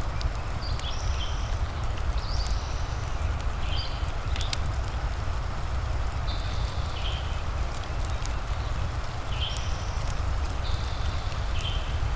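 Steady rain over a low rumble, with the scattered sharp pops and crackles of a wood fire. Short high-pitched calls sound every second or two.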